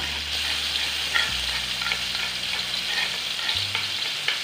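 Ground spice paste of shallot, garlic, chili and turmeric sizzling in hot oil in a wok: a steady frying hiss. A few light clicks come from a metal spoon scraping the paste off the earthenware bowl.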